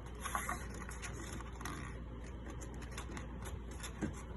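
A sheet of paper being folded and creased by hand, with a run of small crackles and rustles; the strongest come about a third of a second in and again near the end.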